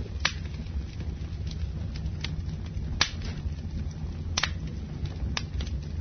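Campfire burning: a steady low rumble with about five sharp crackles and pops of burning wood, the loudest about three seconds in.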